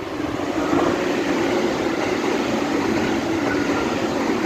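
An electric train passing close by: its running noise builds up over about a second, then holds loud and steady with a low hum under it.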